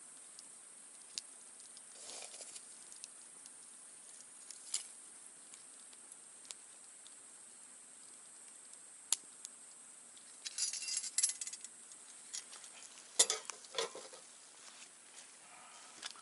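Wood campfire crackling, with scattered sharp pops, a burst of crackles about ten seconds in and a louder crack about thirteen seconds in, over a steady high hiss.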